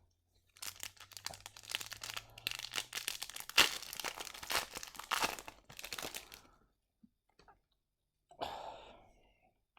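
Plastic foil wrapper of a hockey card pack being torn open and crinkled, a dense run of crackling with one sharp crack about halfway through, stopping about six and a half seconds in. A short breathy sound follows near the end.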